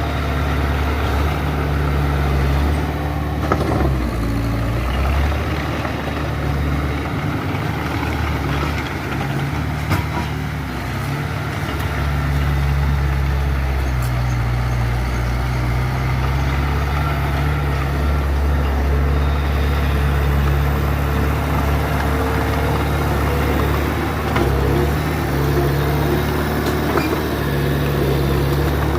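Diesel engine of a small Mitsubishi BD2F bulldozer running steadily, its pitch stepping up and down several times. There are a couple of short knocks, about three and a half seconds in and again about ten seconds in.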